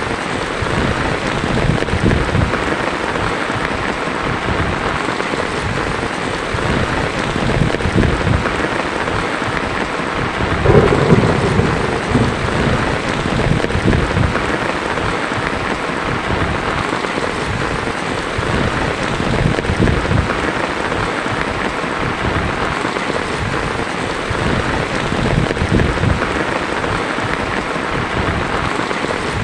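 Heavy rain drumming steadily on a tin roof, with a roll of thunder about a third of the way in that swells louder for a second or two.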